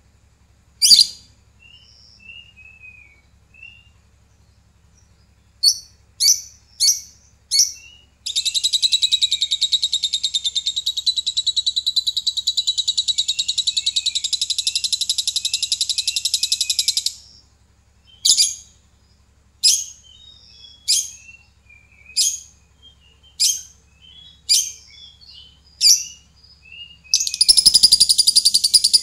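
Lovebird calling: sharp high chirps, then a long rapid trilling chatter lasting about nine seconds, then single chirps about once a second, with another rapid trill starting near the end.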